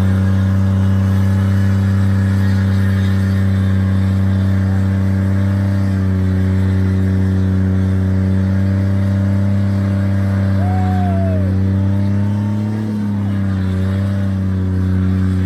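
Engine of the Datsun 521 drift truck with its Nissan Hardbody swap, running at a steady, even speed, with a brief dip about thirteen seconds in.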